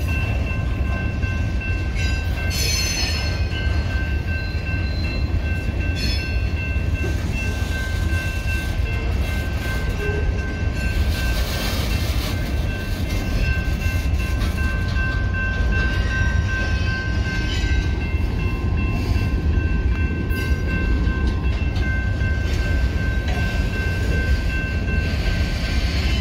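Freight train's boxcars and hopper cars rolling past: a steady low rumble of steel wheels on rail with a few brief clanks and squeals, and steady high-pitched tones ringing over it throughout.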